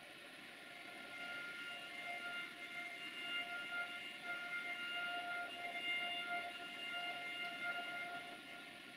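Approaching passenger train, still out of sight, heard from a distance: a high steady tone with overtones that swells and wavers for about seven seconds over a faint rumble.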